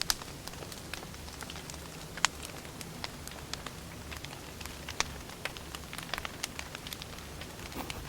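Firewood burning, crackling with irregular sharp pops over a steady low rumble; the loudest pops come right at the start, a little over two seconds in, and about five seconds in.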